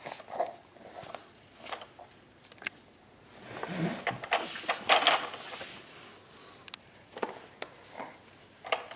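Scattered clicks and knocks from a baby batting at the toys on his bouncer seat, with a busier stretch of clattering and rustling around the middle.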